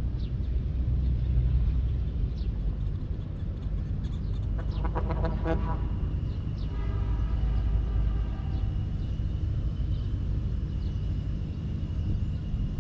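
Outdoor ambience: a steady low rumble with scattered short, high bird chirps. About five seconds in there is a brief pulsing pitched call, and a thin high steady tone joins from about six seconds.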